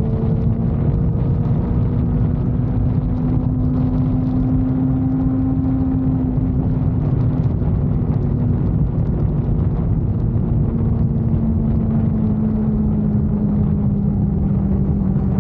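Motorcycle engine running steadily while riding, its pitch rising a little over the first few seconds and then easing back down, over a constant low rumble.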